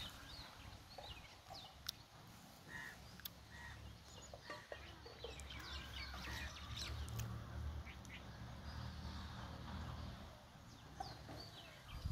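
Faint bird calls: scattered short high chirps and quick falling whistles, over a low rumble.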